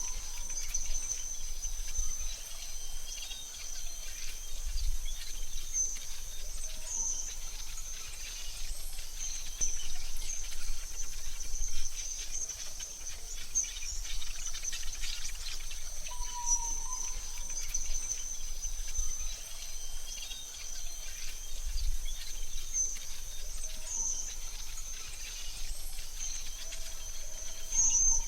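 Forest ambience: a steady high-pitched insect drone of cricket-like chirring, with occasional short bird chirps over it.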